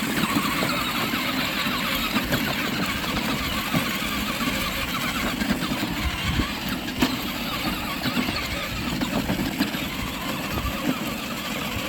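A child's battery-powered ride-on Tonka truck driving: the electric drive motors and gearbox run steadily as it rolls over rough ground.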